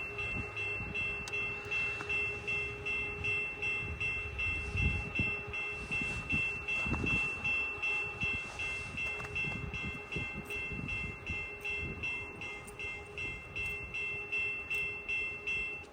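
Railroad crossing bell ringing at an even beat of about two strikes a second, cutting off at the very end as the crossing is deactivated.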